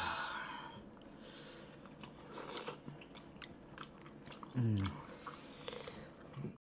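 A man chewing a mouthful of steamed momo soaked in hot sauce: soft wet chewing and mouth clicks, louder at the first bite. About four and a half seconds in comes a short falling hummed 'mm'.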